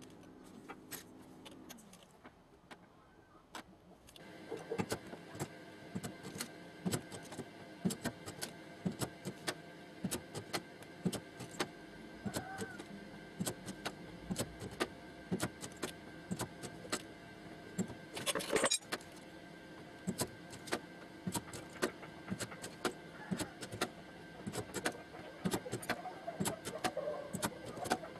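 Irregular light metallic taps and clinks on the steel door panel of a car during hand straightening. A steady hum comes in about four seconds in, and a short hissing burst comes about two-thirds of the way through.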